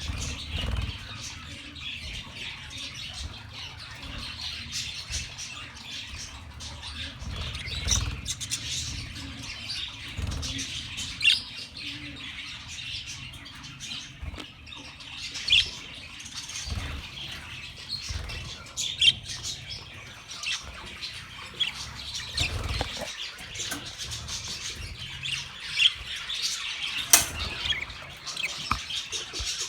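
Budgerigars chattering with many short, high chirps and squawks, with a few low thumps scattered through.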